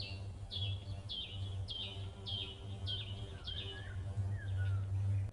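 A bird calls a short falling note over and over, about one and a half times a second, with a few fainter, lower falling notes in the second half. A steady low hum runs underneath and swells near the end.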